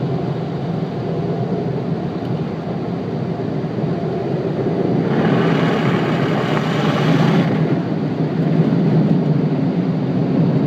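Car wash blower dryers running as a loud steady roar with a low hum. About five seconds in a brighter hiss joins for a couple of seconds, then drops away.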